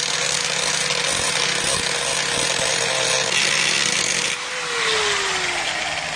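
Angle grinder grinding an edge onto a steel sledgehammer head: a steady motor whine under the hiss of abrasive on metal. About two-thirds in, the whine falls steadily in pitch as the motor slows.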